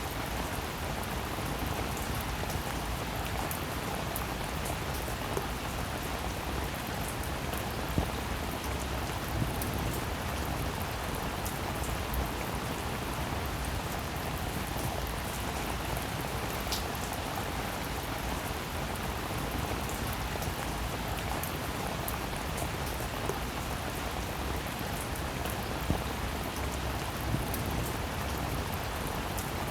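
Steady rain falling, with scattered single drops striking close by as brief clicks a few times.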